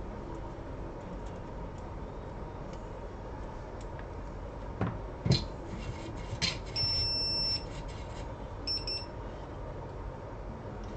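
Electronic beeps from bench equipment: one long high beep lasting just under a second, then a short one about a second later, after a few light knocks of handling, over a steady electrical hum.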